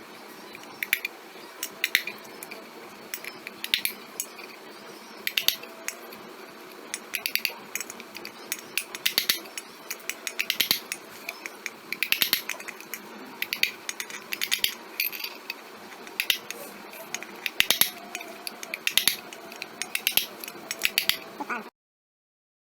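Repeated light metal-on-metal taps and clinks, in small clusters every second or two, over a low steady hum; the sound cuts off suddenly near the end.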